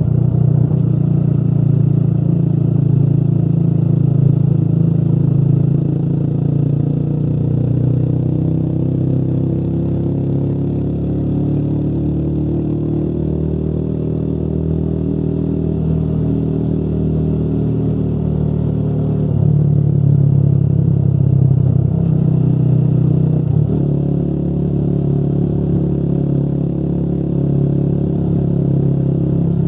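Motorcycle engine running under way. The engine note climbs slowly through the first half, then changes abruptly about two-thirds of the way in and again a few seconds later.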